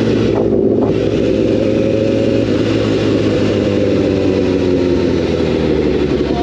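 Sport motorcycle engine running while riding, holding a fairly steady pitch that eases slightly lower partway through.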